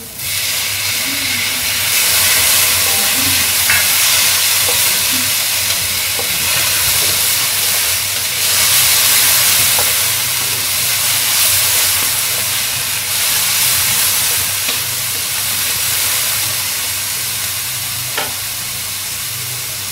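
Diced tomatoes hitting hot oil in a wok, bursting into a loud, steady sizzle as they stir-fry with shallots, onion, garlic and ginger. A single sharp knock sounds near the end.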